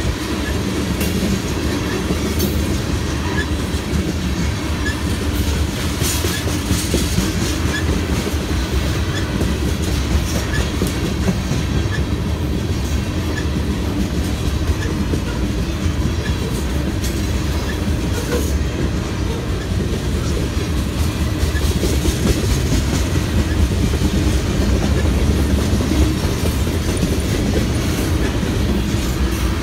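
BNSF freight train's cars rolling past at track speed: a steady, loud rumble of steel wheels on rail with clicks over the rail joints.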